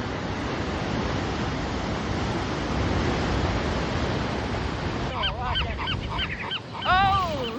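Steady surf and wind noise. About five seconds in, birds call: a quick run of short rising-and-falling notes, then one long, loud call that falls in pitch.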